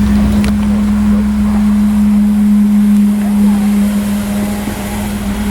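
A vehicle gives off a steady low drone on one held note, lasting about five seconds and easing off near the end, over a low background rumble.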